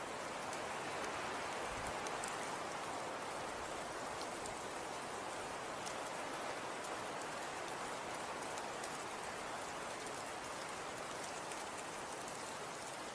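Falling snow: a steady, even hiss with faint scattered light ticks.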